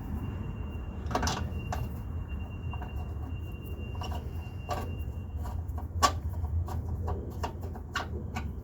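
Scattered sharp knocks and clinks of metal parts and tools being handled while fitting a car engine mount, about eight of them, the loudest about six seconds in, over a steady low hum.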